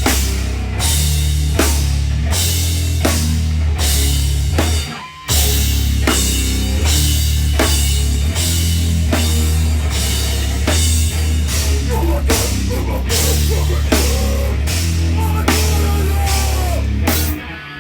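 A live heavy hardcore band playing loud: pounding drum kit with cymbal crashes over heavily distorted, low-tuned guitars and bass. The band stops for a moment about five seconds in and again near the end before crashing back in.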